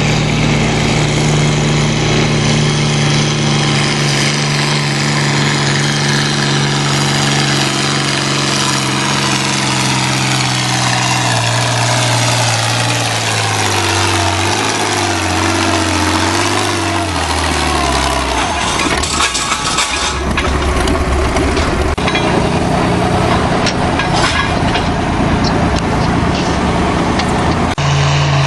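Antique tractor engine working hard under load on a pull, its pitch sinking steadily for about eighteen seconds as it lugs down. After that a lower, rougher engine sound with scattered clicks, and a louder engine comes in near the end.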